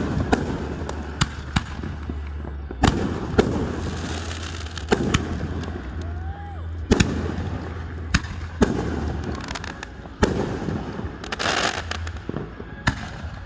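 Aerial fireworks bursting: about ten sharp bangs, one every second or so, each trailing off in a rolling echo, with a burst of dense crackling about eleven seconds in. A steady low hum runs underneath.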